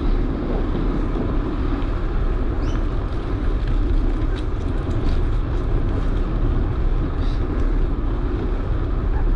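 Steady low rumble of a bicycle ride: wind buffeting the microphone and tyres rolling on the path, with a few faint ticks.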